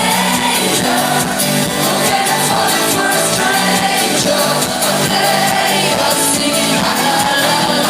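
Live electropop band music through a venue PA, with a woman's lead vocal singing over a steady beat.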